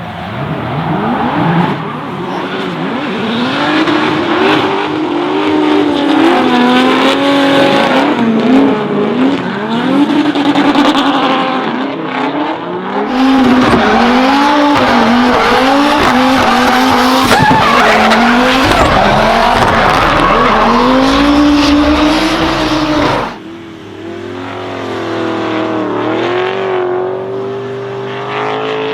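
Toyota Supra MK4's 2JZ straight-six revving up and down hard while drifting, over tyres screeching. The sound cuts abruptly about halfway through to a louder pass, then near the end to a quieter, steadier engine note that slowly rises.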